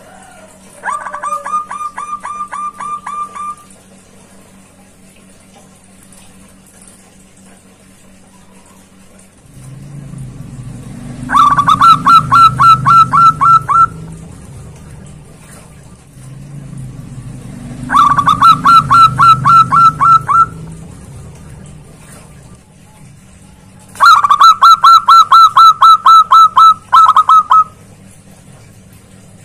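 Zebra dove (perkutut) calling in four bouts, each a fast run of repeated notes lasting two to four seconds. The first bout is fainter; the last three are loud. A low rumble sits under the second and third bouts.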